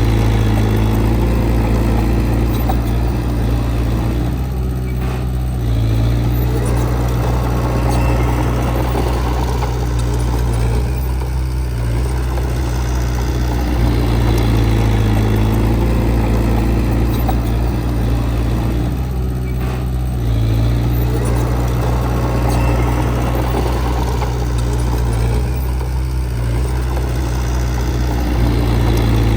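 Heavy diesel engine of earthmoving equipment running steadily under work, its sound easing briefly about every six to eight seconds.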